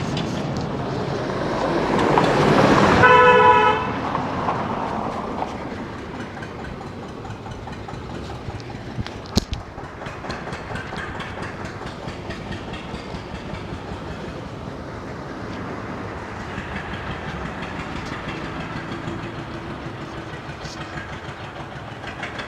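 A vehicle passing, swelling to its loudest about three seconds in, where a horn gives one short toot, then fading to a steady rumble.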